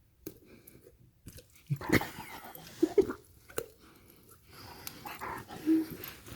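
A pet dog making a few short, low vocal sounds, mixed with breathing noises, while it is being teased and is mouthing at a person.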